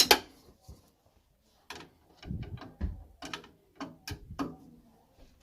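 Hand tools and metal fittings being handled while working on a boiler: a sharp knock at the start, then, after a short pause, a run of irregular clicks and clunks over about three seconds.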